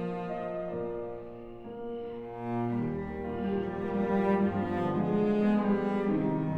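Classical chamber music led by a bowed cello playing sustained notes, with violin and piano. It is softer about two seconds in, then swells louder.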